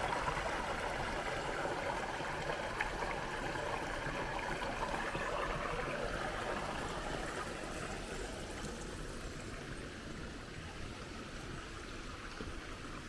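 River water rushing over the falls' cascades, a steady rush that grows a little fainter in the second half.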